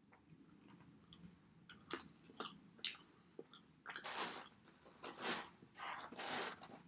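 Mouth sounds of chewing pizza: soft wet smacks and clicks. From about four seconds in come three louder, noisy rustling bursts as a slice is torn off the pizza in its cardboard box.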